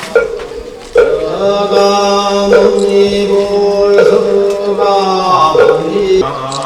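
Buddhist chanting by a male voice in long held, melodic notes, with a short knock about every one and a half seconds, accompanying the bathing-the-Buddha rite.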